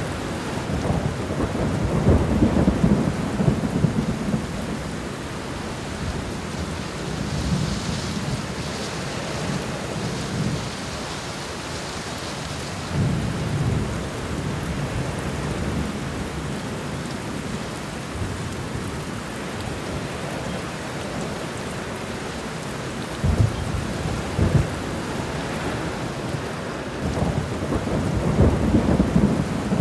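Thunderstorm: steady heavy rain with rolling thunder rumbling in low waves several times, strongest near the start and near the end.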